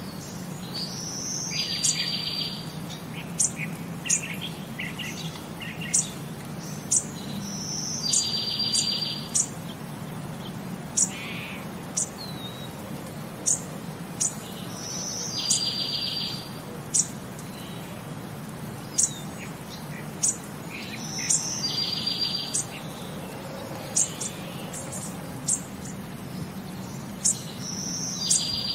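Wild birds calling: a two-part call, a short rising whistle and then a buzzy trill, repeats about every six or seven seconds, with sharp high chirps scattered between. Under it runs a steady low hum.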